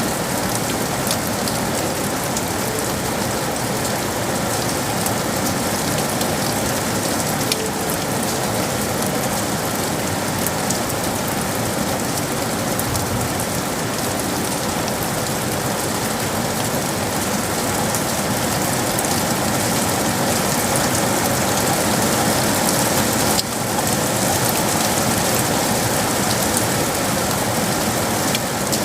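Steady rain falling on hard surfaces, a dense patter of drops, with a brief dip in level about three-quarters of the way through.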